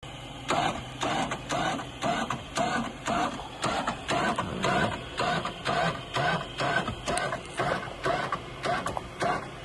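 Hand winch (come-along) being worked in rhythmic ratcheting strokes, about two a second, hauling a stuck car toward a tree.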